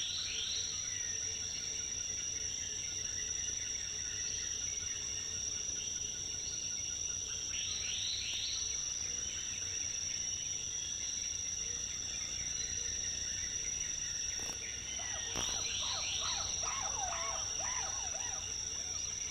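Rainforest ambience: a steady, high-pitched insect drone runs throughout. Over it come three short clusters of quick bird calls, the last near the end longer and busier.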